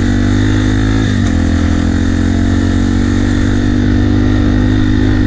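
2005 Yamaha TT-R250 dirt bike's single-cylinder four-stroke engine running while riding along steadily. Its note dips briefly about a second in and again near the end.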